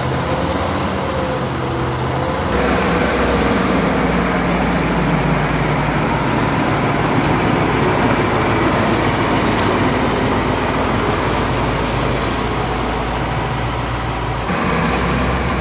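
A motor engine running steadily, growing louder about two and a half seconds in and easing again near the end.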